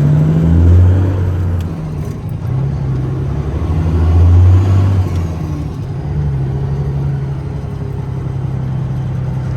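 Diesel engine of a 2006 Peterbilt 379 semi truck heard from the cab, pulling hard and climbing in pitch twice as it works through the gears of its manual transmission, then settling into a steady drone.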